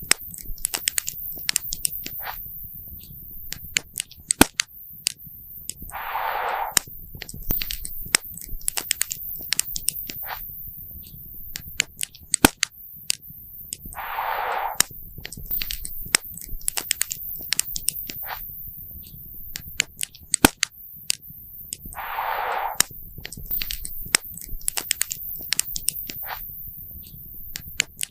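Wood campfire crackling, with sharp pops and snaps scattered irregularly over a low rumble of the flames. Three short hisses come about eight seconds apart.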